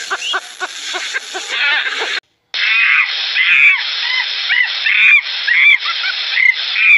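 Animal calls. For about two seconds a rapid run of short pitched calls comes at about four a second, then after a sudden break a different series of higher chirping calls, each rising and falling, repeats about once or twice a second.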